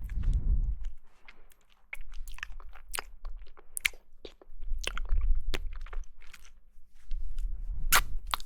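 Close-up sound of someone chewing and biting jelly: many sharp, irregular clicks and crackles, with a few low rumbling stretches between them.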